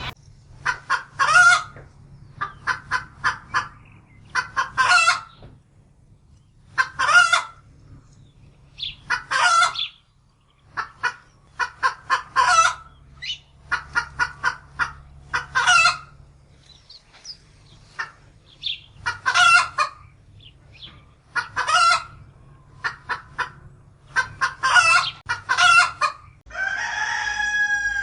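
A chicken calling over and over: each time a quick run of short clucks leads into a longer, louder call, repeating about every two to three seconds. Near the end a different, longer call with a sliding pitch begins.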